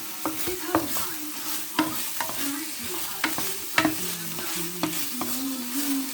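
Chicken pieces sizzling as they fry in a pan, stirred with a utensil that knocks and scrapes against the pan many times. A faint low wavering tone sits underneath.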